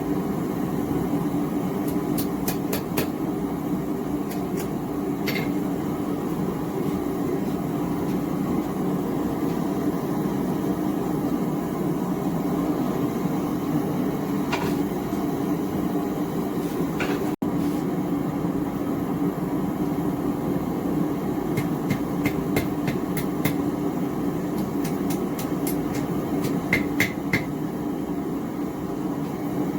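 Steady roar of a gas forge's burner, with short runs of hammer blows ringing on hot steel at the anvil: a few strikes a couple of seconds in, single strikes in the middle, and quick series in the last third.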